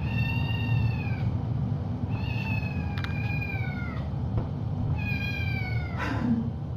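A cat meowing three times, long drawn-out meows that each fall slightly in pitch.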